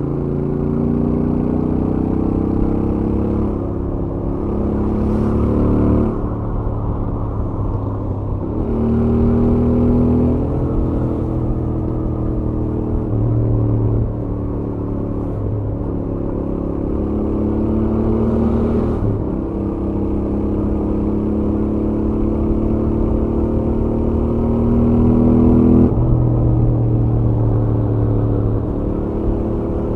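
Royal Enfield Interceptor 650's 648 cc parallel-twin engine through its stock exhaust, heard from the rider's position at highway speed. The engine note climbs slowly and drops back sharply several times as the throttle is opened and eased off, over steady road and wind noise.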